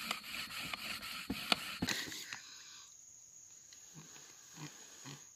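Bamboo fire-saw friction: one length of bamboo rasped rapidly back and forth against another, with a few sharp clicks. It stops about two seconds in, leaving a quieter stretch with a few faint soft sounds.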